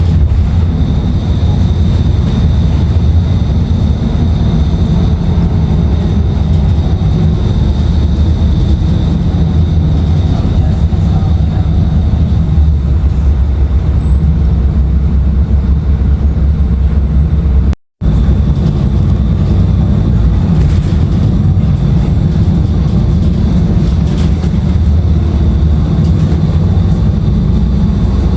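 Onboard sound of a 2016 Nova Bus LFS under way: its Cummins ISL9 diesel engine and ZF automatic transmission running with a steady low rumble, with a thin steady high whine over it. The sound cuts out for a split second a little past halfway.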